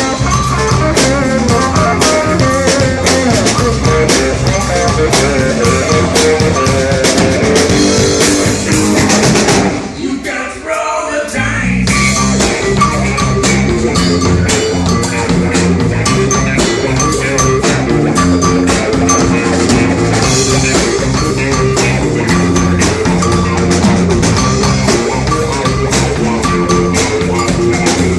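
Live rock band playing an instrumental passage with drum kit and electric guitar. About ten seconds in the band drops out briefly under a falling slide, then crashes back in.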